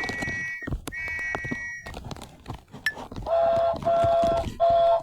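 BRIO Smart Tech Sound toy train engine playing its built-in train sound effects through its small speaker: two high, steady toots, each under a second, then a lower horn-like tone sounding three times in quick succession near the end.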